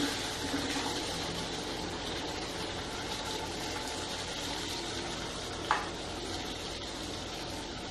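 Tomato paste sizzling as it goes into hot butter and spices in an aluminium kadai: a steady hiss, with one sharp knock about three quarters of the way through.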